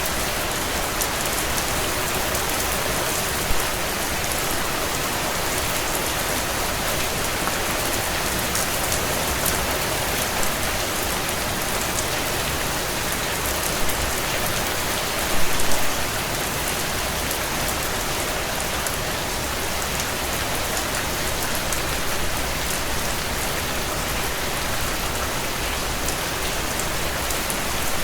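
Heavy rain drumming steadily on a tin roof, a dense even hiss of drops, with a few louder drop strikes, a short cluster of them about halfway through.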